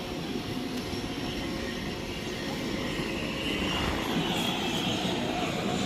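Aircraft engine running on the airport ramp, a steady drone with a turbine whine that grows stronger about halfway through.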